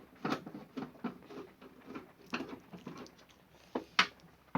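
Light clicks, taps and scratches of hands handling a small air cooler's plastic casing around its side screws, with one sharper click about four seconds in.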